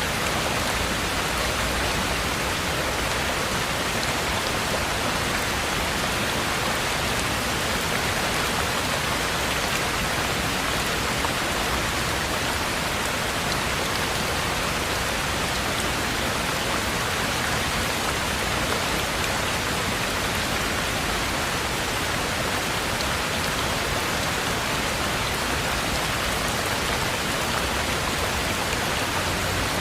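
Heavy rain falling steadily, an even hiss of drops on surfaces with no breaks or single drops standing out.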